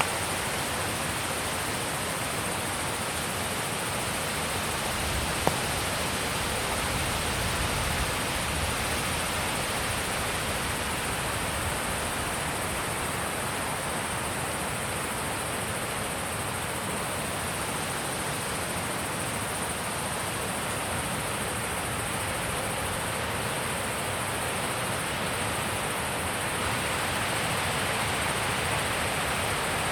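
Steady wind blowing, an even rushing noise that holds level throughout, with a single faint click about five seconds in.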